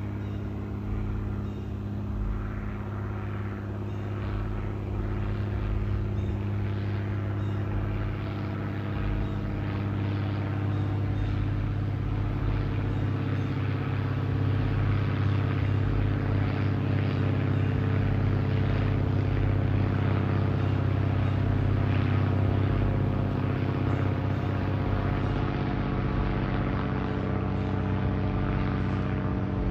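An aircraft flying past with a steady low droning hum that builds slightly towards the middle.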